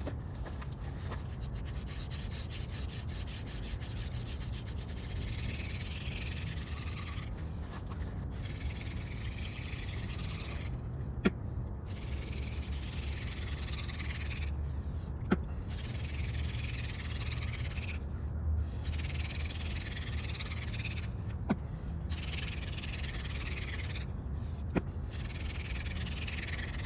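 Yucca spindle twirled between the palms in a hand-drill friction fire, its tip grinding into a crepe myrtle hearth board to build an ember, worked at a steep angle in a blown-out notch. The rubbing runs in stretches of a few seconds, broken by short pauses as the hands go back up the spindle, with a few sharp ticks.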